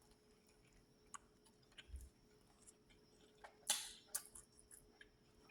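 Quiet mouth sounds of a person biting into and chewing a burger close to the microphone: a few soft clicks and wet crackles, the loudest a little past halfway.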